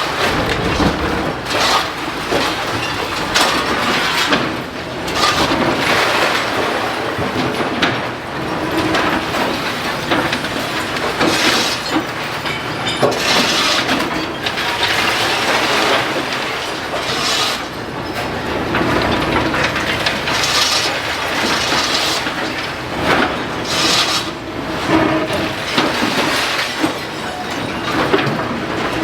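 Building demolition: masonry, timber and glass crashing and grinding without a break, full of knocks and cracks as an excavator pulls the structure down.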